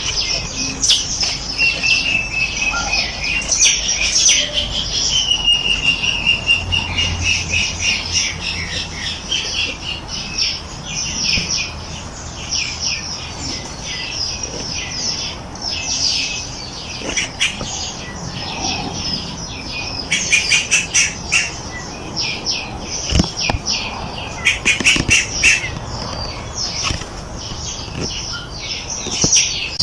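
A chorus of small songbirds chirping and trilling rapidly. A clear, drawn-out whistle runs through the first several seconds, and tighter bursts of quick chirps come past the middle and near the end.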